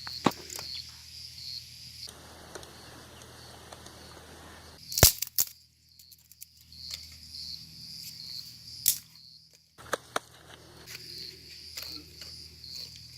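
Insects chirping in a steady high trill, with some rustling and a few sharp cracks, the loudest about five seconds in and another near nine seconds.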